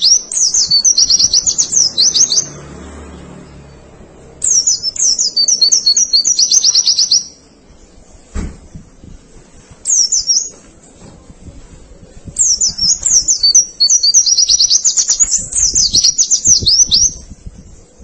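Pleci (white-eye) singing in fast, high twittering phrases of rapid chirps, four bursts separated by short pauses. A single soft knock sounds about eight seconds in.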